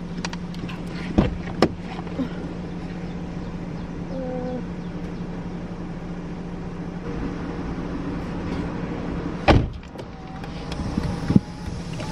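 A car with its engine running, heard from inside: a steady low hum with a few clicks early on and one loud knock about nine and a half seconds in.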